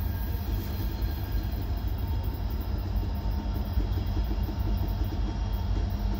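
Train rolling by with a steady low rumble.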